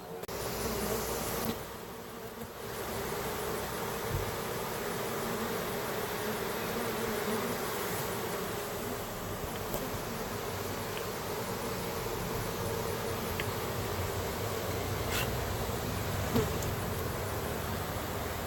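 A large swarm of honeybees buzzing as a dense, steady hum of many wings. The swarm is active and disturbed.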